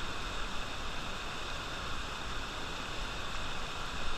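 Waterfall: rushing water, a steady hiss.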